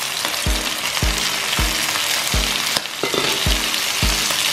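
Sliced onion and chicken thighs sizzling in a hot frying pan, stirred with tongs, over background music with a steady beat.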